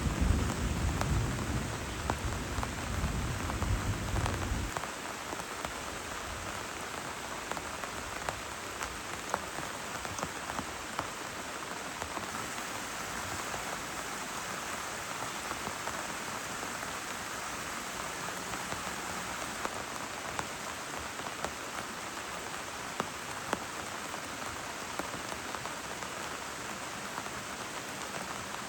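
A low rumble of thunder dies away about five seconds in, leaving heavy rain falling steadily, with the patter of individual drops hitting a surface.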